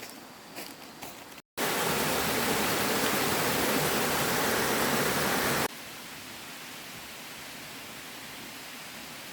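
A loud, steady rushing noise that cuts in abruptly after a brief dropout and cuts out just as suddenly about four seconds later, leaving a quieter steady hiss.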